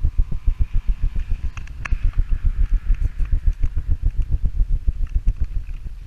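Small gas engine of a pressure washer running steadily with a rapid, even throb, and a hiss over it that swells in the first half.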